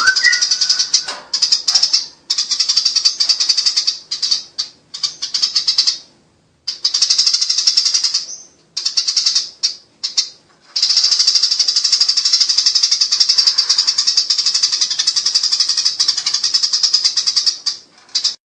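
Eurasian tree sparrows giving the harsh, rapid chatter of a fight: fast runs of high rattling notes that break off several times, with a long unbroken stretch in the second half.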